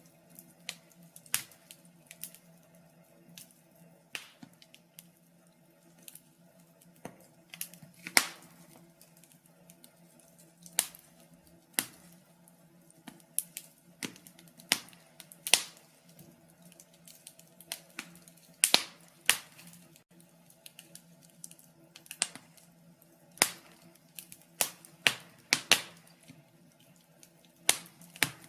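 Wood fire in a fireplace crackling: irregular sharp pops and snaps, some loud and some faint, with short quieter gaps. A faint steady low hum runs underneath.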